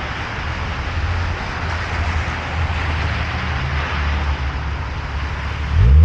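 Wet city street traffic: a steady hiss of rain and tyres on wet road over a low rumble of idling and passing engines. Near the end a vehicle's engine note rises as it pulls away.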